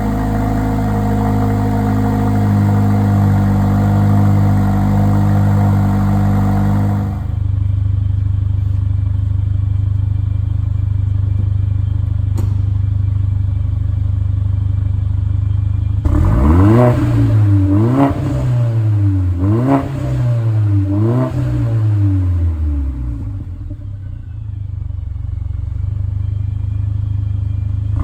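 Mercedes A45 AMG's turbocharged four-cylinder engine with an AMG performance exhaust idling, its idle dropping lower about seven seconds in. Later it is blipped about four times in quick succession, each rev rising and falling, then it settles back to idle, and another rev begins near the end.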